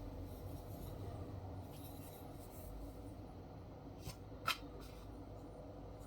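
Faint handling sounds of small wooden blocks and fabric strips being laid out by hand, with two light clicks about four seconds in, the second the louder.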